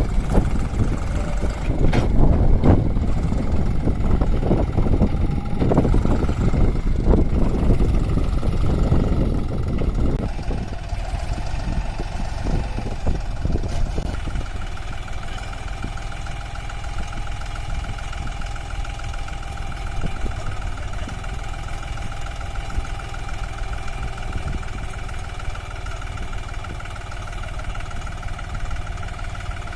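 Heavy diesel machinery engine working hard, uneven and knocking for about the first ten seconds. It then settles to a steadier running note with a thin, steady whine on top.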